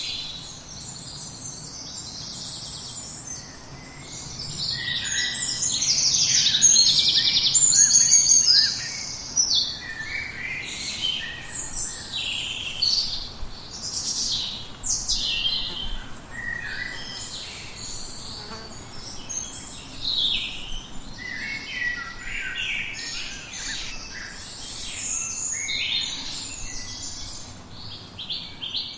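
Several songbirds singing and calling at once, with many overlapping high chirps and trilled phrases, loudest about six to eight seconds in, over a faint steady low background noise.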